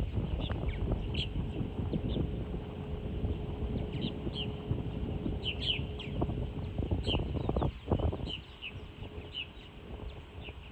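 Small birds chirping, many short repeated calls scattered throughout, over a low rumble that eases off about eight seconds in.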